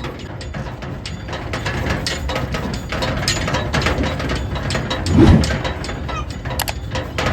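Tractor-driven mini combine harvester working, a dense, continuous mechanical clatter and rattling, with one louder low thump about five seconds in.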